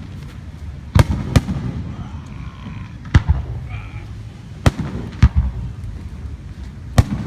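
Aerial fireworks shells bursting: about six sharp bangs, two of them close together near the start, over a continuous low rumble of echoing booms.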